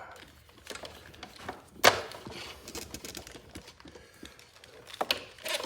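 Hands working on parts and tools: scattered small clicks and clatter, with a sharp knock about two seconds in and a few more knocks near the end.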